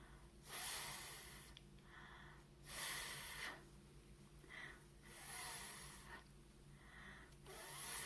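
A woman's voice making the voiceless 'fff' speech sound four times, each a breathy hiss of air blown between the top teeth and lower lip, about every two and a half seconds.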